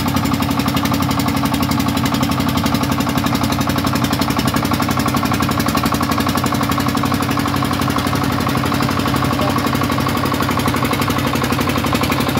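Shifeng 40 farm truck's engine running steadily with a fast, even chugging beat.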